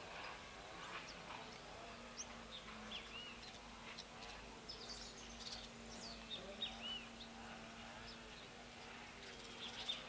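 Small seed-eating birds chirping: scattered short high calls and a few arching notes. Under them is a steady low insect buzz that starts about a second and a half in.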